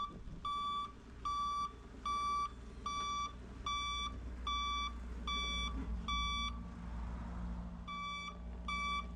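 Backup alarm beeping on diesel equipment as it reverses, about one and a half beeps a second. The beeps stop for a moment a couple of seconds before the end, then come back twice, over the low rumble of the diesel engine.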